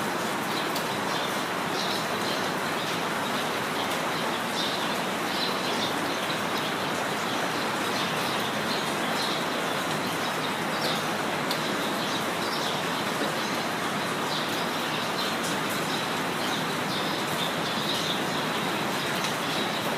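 Steady rain falling, with birds chirping briefly and often over it.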